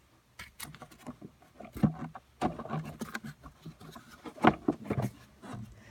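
Irregular clicks and knocks of the plastic air filter housing cover being fitted back over a new air filter and pressed or latched shut, with two louder knocks about two and four and a half seconds in.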